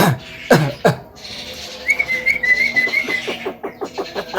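Javan myna (jalak kebo) calling and mimicking: two short harsh falling calls, then a wavering whistle, then a fast run of clicking notes that speeds up near the end.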